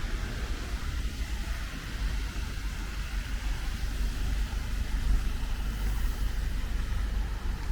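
Rainy city street ambience: a steady hiss of rain with a low, continuous rumble of road traffic.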